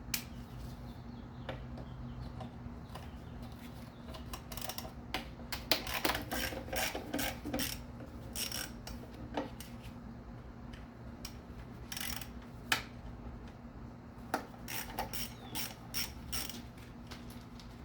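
Socket ratchet on an extension clicking in short irregular bursts as 8mm bolts holding an engine's upper cover are loosened, with a steady low hum underneath.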